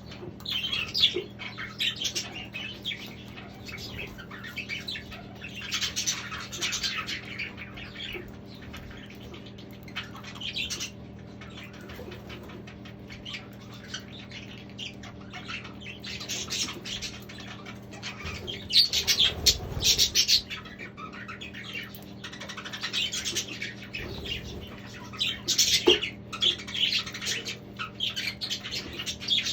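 Budgerigars chirping and chattering in repeated bursts of short high calls over a steady low hum, with a brief low bump about two-thirds of the way through.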